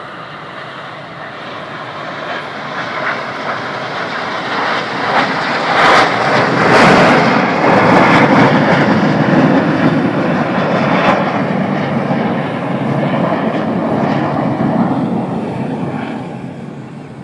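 Aircraft flying past in a flyby: a dense engine roar that grows louder to a peak about halfway through, then slowly fades away.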